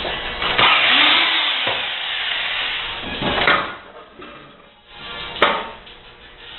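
Background music over the noise of a dishwasher being taken apart: a stretch of harsh mechanical noise near the start, then a few sharp knocks.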